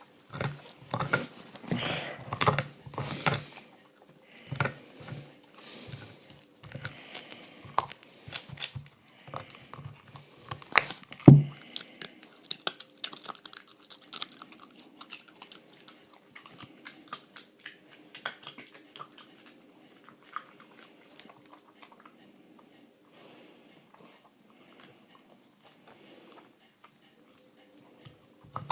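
Dog gnawing and crunching on an ox bone, a busy run of cracks and scrapes with one loud knock about eleven seconds in, then sparser, quieter gnawing.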